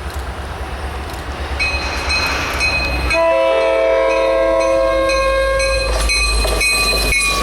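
Approaching train's low rumble, growing louder, with its multi-note horn sounding one long chord from about three seconds in.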